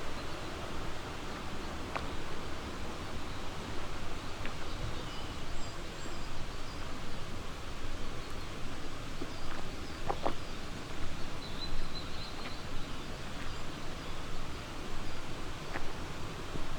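Steady rushing of a flowing river, with a few faint, short, high bird chirps in the middle and occasional soft clicks.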